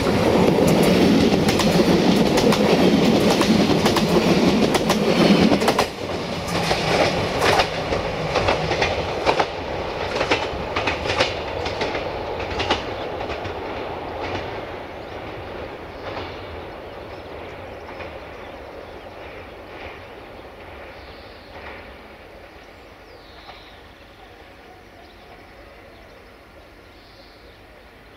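Siemens Desiro diesel multiple unit passing close by, its engine and wheels loud for about the first six seconds. After the cab passes, the wheels click over the rail joints and the whole sound fades steadily as the train runs away into the distance.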